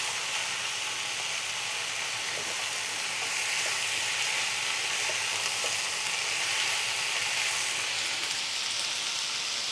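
Chopped cauliflower stalks, potato and radish sizzling in oil in a nonstick pan as a wooden spatula stirs them: a steady frying hiss with a few faint stirring ticks. This is the stage where ginger-garlic paste is being fried with the vegetables.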